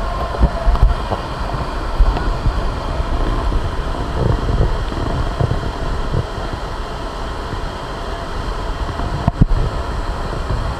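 Steady rumbling noise with wind buffeting the microphone, broken by a few sharp knocks, one near the end.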